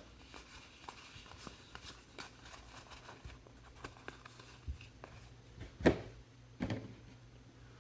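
Hands handling sealed trading-card packs and cards: light clicks and rustles, with two louder knocks about six seconds in, over a faint steady hum.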